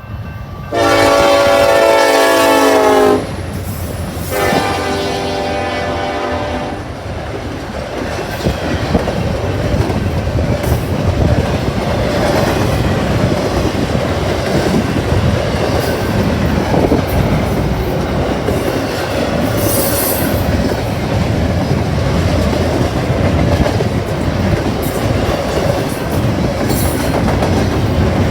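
Freight train locomotive's air horn sounds a long chord blast, then a second, quieter one. After that comes the steady rumble and clatter of boxcars rolling past.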